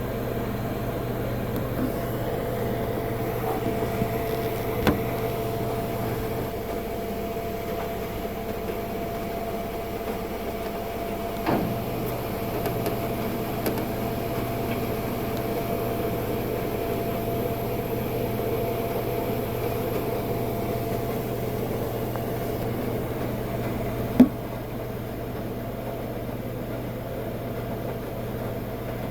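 Coin-operated washing machine running through its rinse with fabric softener dispensed, a steady hum with a few clicks, the sharpest about 24 seconds in.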